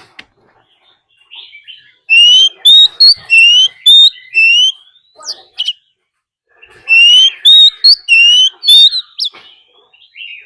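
Oriental magpie-robin singing a fighting song: two loud phrases of quick, rising whistled notes, the second a couple of seconds after the first.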